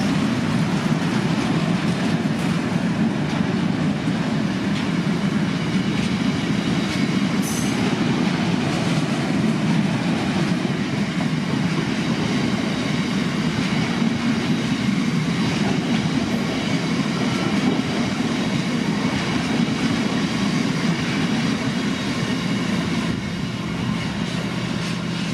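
Freight train wagons rolling past steadily, their wheels rumbling and clattering on the rails, with a brief high squeal about seven seconds in.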